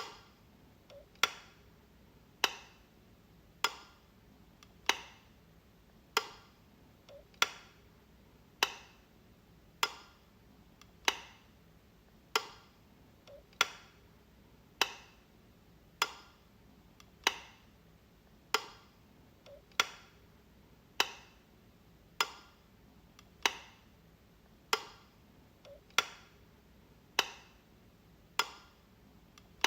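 Light switch being flicked over and over, one sharp click about every 1.2 seconds.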